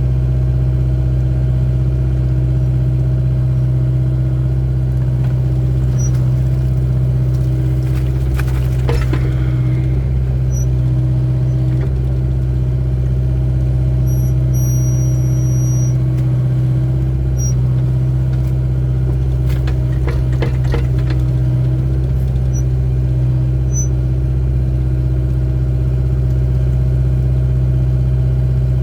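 Excavator's diesel engine running steadily under digging work, with a few metallic clanks from the bucket and arm about eight seconds in and again about twenty seconds in, and a brief high squeal in between.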